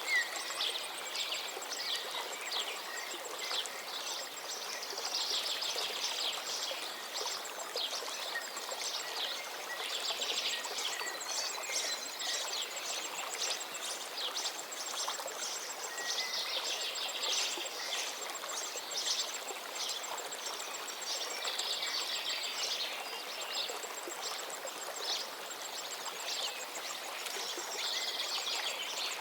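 River water flowing with a steady rush, with several songbirds chirping and trilling over it throughout.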